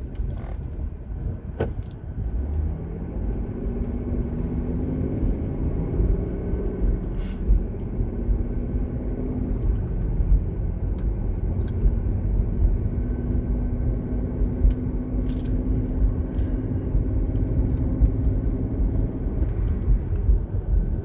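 Car being driven: a steady low rumble of road and engine noise from inside the cabin, with a faint engine drone and a few light clicks.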